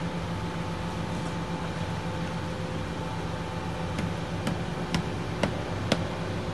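An engine running steadily, with five sharp clicks or knocks about half a second apart in the second half.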